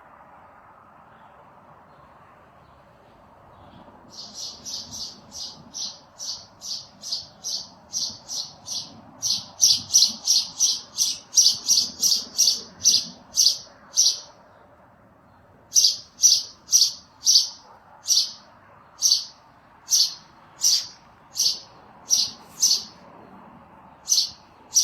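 A bird calling over and over in short, high-pitched chirps, about two or three a second, starting about four seconds in and growing louder. The calls pause briefly past the middle, then go on at a slower, steadier pace.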